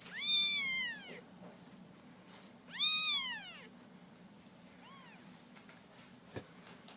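Young kittens mewing: two loud high calls, each rising then falling over about a second, then a faint third mew. A short sharp knock near the end.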